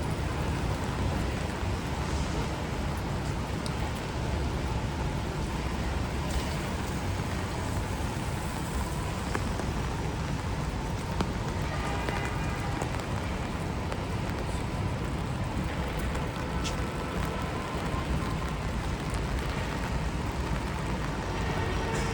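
Steady rain falling on a city street, mixed with the hiss and low rumble of traffic on wet pavement.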